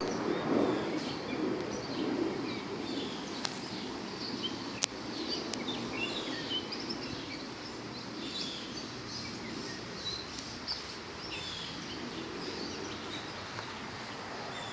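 Outdoor ambience of small birds chirping, many short calls overlapping, over a steady low background noise, with a couple of sharp clicks about five seconds in.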